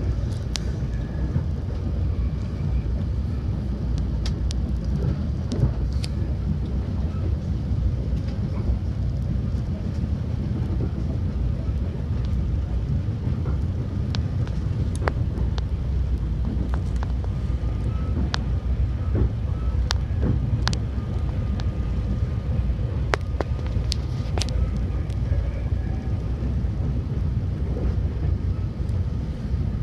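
Passenger train running on the Vitória–Minas railway: a steady low rumble with scattered sharp clicks and creaks.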